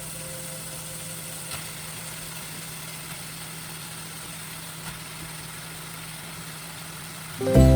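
A steady low mechanical hum with light hiss and a couple of faint clicks. Background music fades out just after the start and comes back in loudly near the end.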